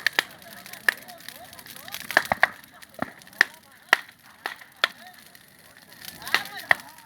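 Bonfire of burning wood crackling, with sharp irregular pops and snaps, some louder than others.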